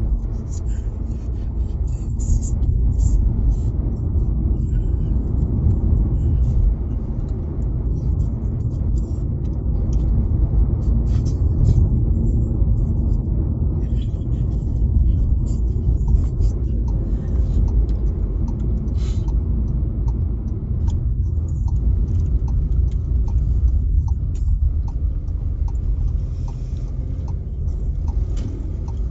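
Car driving in rain, heard from inside the cabin: a steady low road rumble with raindrops tapping on the windshield. A regular light ticking runs for several seconds midway.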